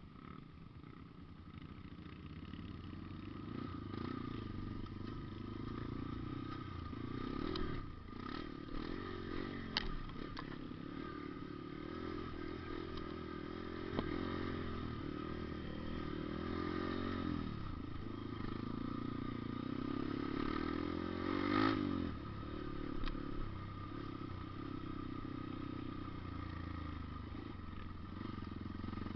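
Engine running throughout, its revs rising and falling several times, with a few sharp clatters and knocks.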